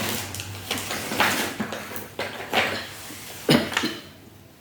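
Small pieces of a wooden or cardboard map puzzle being handled, with short rustles, clicks and knocks as pieces are pushed out and put down, the sharpest click about three and a half seconds in.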